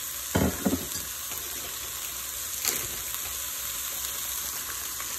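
Ground meat and chopped onions sizzling steadily in hot olive oil in a pot. A short knock comes about half a second in, and a light click near the middle.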